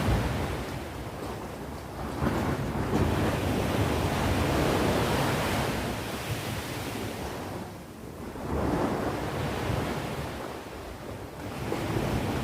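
Ocean surf: waves breaking and washing ashore in a continuous rush that swells and fades in slow surges every few seconds.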